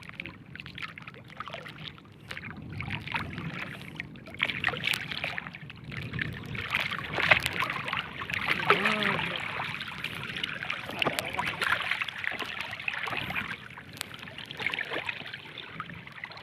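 Water splashing and trickling around a small wooden fishing boat as a gill net is hauled, with many small knocks and clicks from the net and boat throughout.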